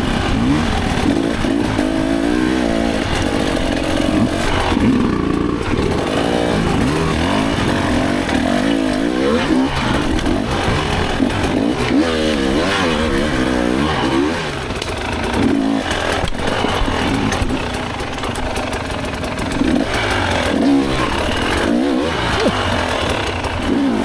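Dirt bike engine ridden hard, its pitch rising and falling over and over with the throttle. It runs a little quieter for a few seconds past the middle.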